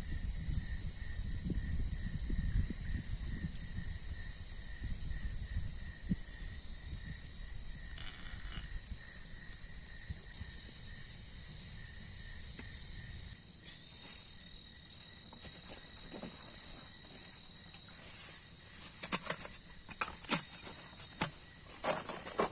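Steady, high-pitched chirring of night insects such as crickets. A low rumble runs underneath for the first half and cuts off suddenly. Near the end come scattered clicks and knocks of handling or steps.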